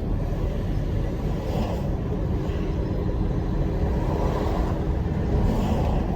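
Large truck on the move: steady engine and road noise, strongest in the low, deep range.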